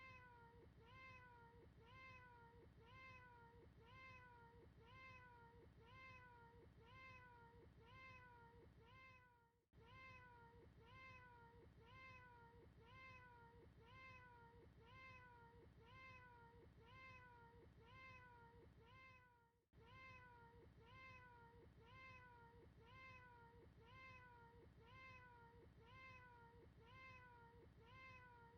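A faint cat meow looped over and over, the same short call repeated about twice a second, with a brief break about every ten seconds.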